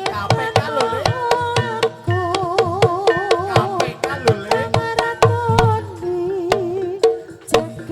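Live Javanese barongan accompaniment music: quick, sharp hand-drum strokes under a wavering melody line that bends in pitch.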